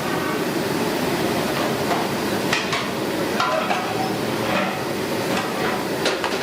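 Busy street ambience: a steady wash of background noise with scattered sharp knocks, about half a dozen.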